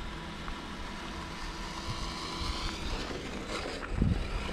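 Electric RC scale crawler driving, its motor whine rising and falling around the middle, over steady outdoor noise, with a low thump near the end.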